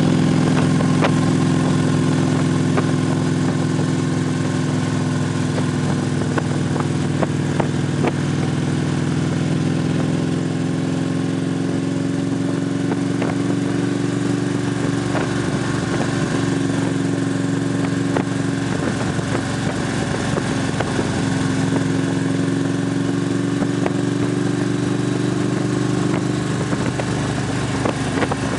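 Victory police motorcycle V-twin engines running steadily, the engine note holding an even pitch without revving.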